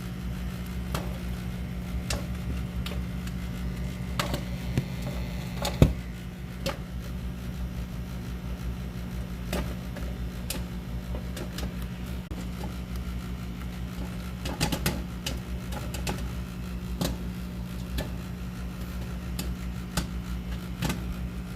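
Popcorn kernels popping inside a running microwave oven: scattered sharp pops, roughly one every second or two with a small cluster around the middle, over the oven's steady low hum. The loudest pop comes about six seconds in.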